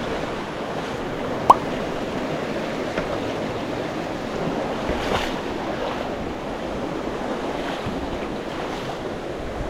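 Steady rushing of a mountain stream mixed with wind buffeting the microphone. A brief, sharp chirp stands out about one and a half seconds in.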